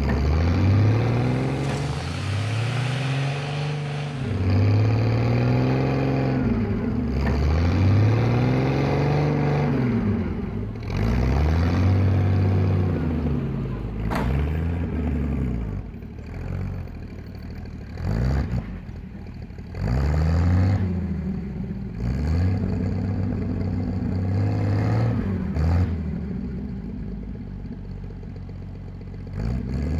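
1938 GMC truck engine running, its pitch swelling up and falling back again and again every two to three seconds, with a few sharp clattering knocks in the second half.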